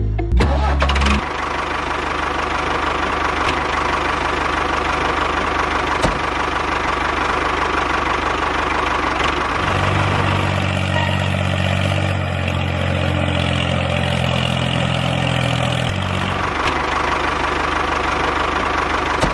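A small electric motor of a miniature DIY model machine running steadily with a buzzing whir. A deeper hum joins in from about ten to sixteen seconds in.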